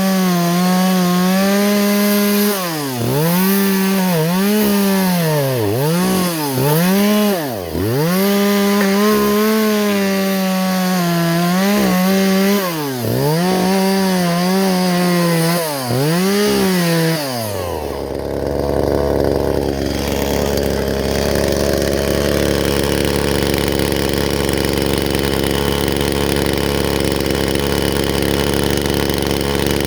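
Two-stroke chainsaw running at full throttle, its revs dipping sharply and recovering again and again, as when sawing wood. About two-thirds of the way in, the revs drop away and the saw settles to a steady idle.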